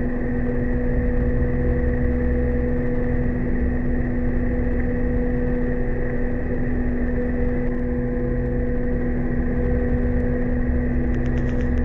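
A ship's engines running steadily during a dockside test, a constant hum with a few held tones. Faint quick ticks come in near the end.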